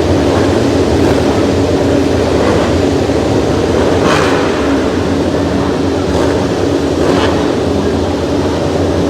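The MotoGP field's racing motorcycle engines at the race start, heard together as a loud, dense, steady sound with one held pitch, and brief louder surges about four, six and seven seconds in.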